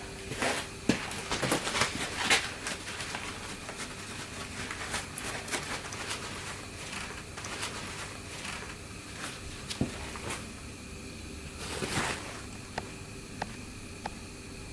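Irregular light clicks and knocks over a steady hum, busiest in the first few seconds and again near the end.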